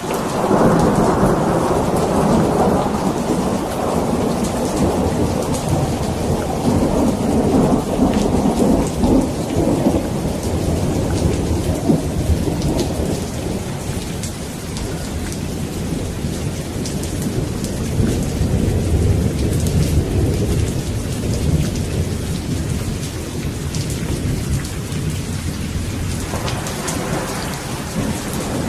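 Steady heavy rain with rolling thunder. A loud thunder rumble starts right at the beginning and fades over about ten seconds. Lower rumbling carries on through the middle, and another peal begins near the end.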